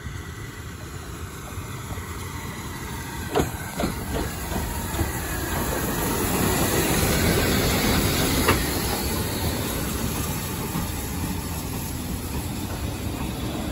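A train pulling in, its rumble of wheels on rails building to its loudest about seven seconds in and then easing off, with a few sharp clicks along the way.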